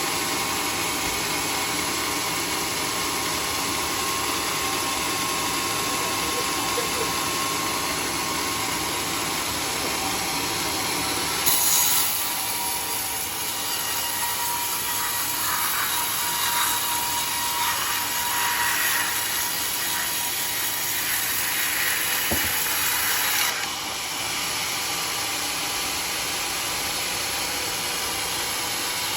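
Sawmill band saw running steadily on teak, with a brighter, hissing stretch of about twelve seconds in the middle as the blade cuts through the log.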